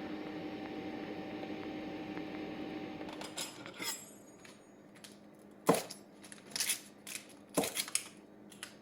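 A steady hum cuts off about three seconds in, followed by sharp clinks and knocks of cutlery against a dish, several of them loud and spaced about a second apart.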